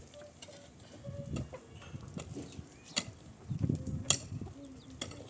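Domestic chickens clucking in short, repeated low notes. Two sharp knocks about three and four seconds in are the loudest sounds.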